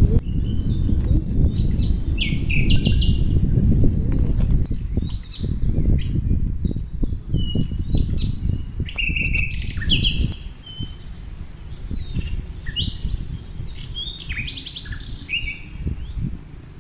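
Several birds chirping and calling in short, quick notes and sweeping whistles. Underneath is a low rumbling noise that is the loudest sound for the first ten seconds, then drops away.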